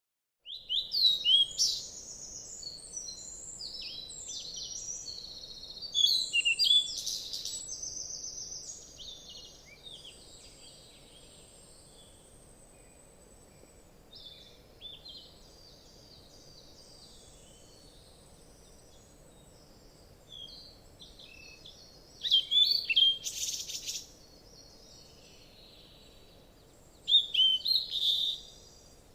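Songbirds singing: bursts of rapid, high chirps and trills about a second in, around six seconds in and twice near the end, with softer chirping between.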